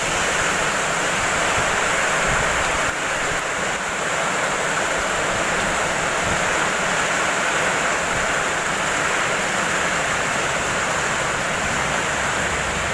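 Heavy storm rain pouring down in a steady, unbroken hiss.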